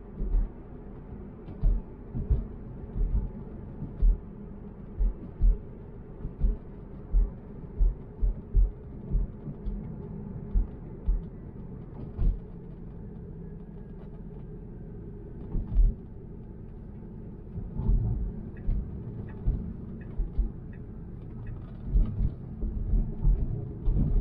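Road noise inside a moving Tesla: a steady low rumble with frequent, irregularly spaced low thumps.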